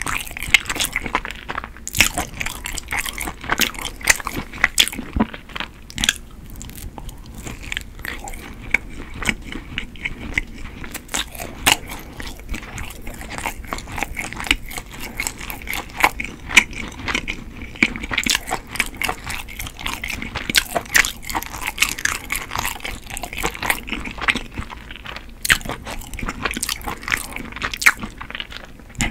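Chewing and biting a chewy Korean rice cake (tteok) coated in golden crumbs, giving an irregular run of small sticky mouth clicks.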